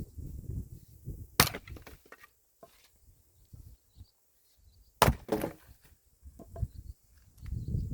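Firewood being split with chopping blows: two sharp strikes about four seconds apart, the second followed by a short crackle of splintering wood.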